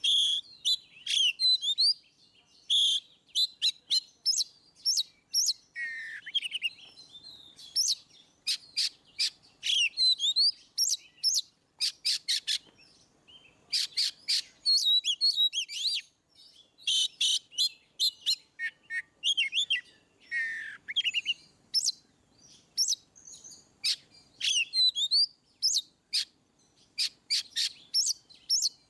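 Oriental magpie-robin (kacer) singing loudly in the open, continuous 'ngeplong' style: a varied song of rapid sharp chips and quick whistled slurs, delivered in bursts with short pauses.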